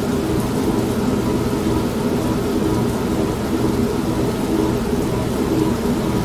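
An old manual washing machine running with a steady hum and churn, blended with steady rain and a low rolling rumble of thunder.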